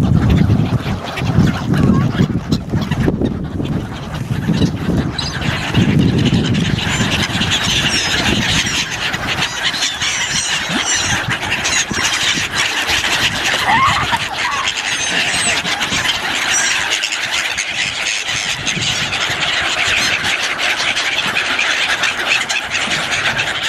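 A large flock of birds calling all at once: a dense, shrill, overlapping chorus that starts about five seconds in, with low rumbling during the first few seconds.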